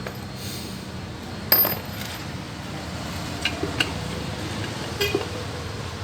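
Metal tools and engine parts clinking against each other, with one sharp clink about a second and a half in and a few lighter ones later, over a steady low hum.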